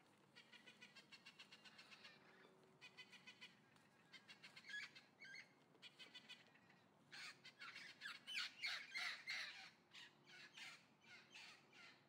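Faint bird calls: runs of short, high chirps repeated several times a second, loudest from about seven to ten seconds in.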